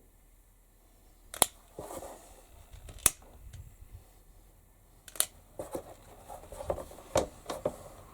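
Hand-work noises at a bench: about five sharp clicks spaced a second or two apart, with soft rustling and scraping between them.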